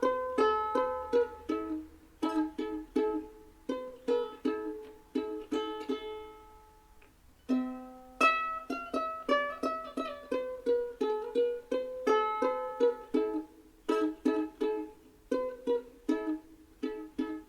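Background music: light plucked ukulele-style tune in quick strummed notes, pausing briefly near the middle.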